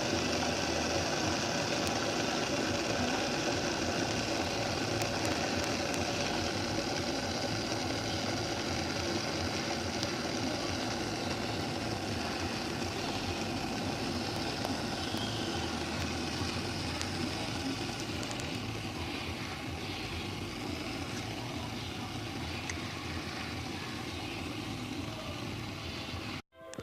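Ovente electric kettle heating water: a steady rumbling hiss of water coming to the boil that eases off slightly towards the end, then cuts off suddenly.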